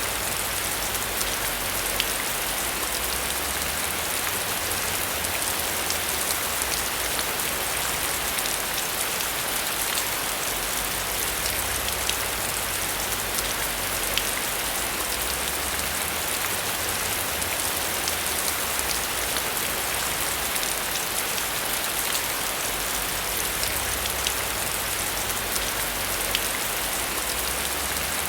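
Steady heavy rain falling, a dense even hiss with many individual drops ticking through it and a low rumble underneath.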